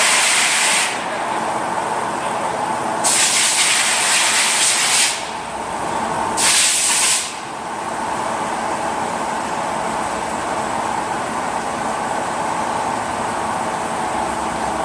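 CNC lathe running with a steady hum, cut across by three bursts of loud hissing: one ending about a second in, a longer one from about three to five seconds in, and a short one near seven seconds.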